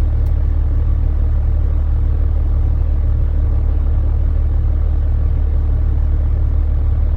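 Truck engine running with a steady, unbroken low rumble.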